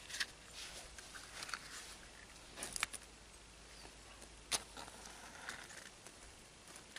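Faint scattered scrapes and clicks of matches being struck to relight the kindling under a split-log torch fire, with a longer scrape a little before the middle and a sharp click just after it.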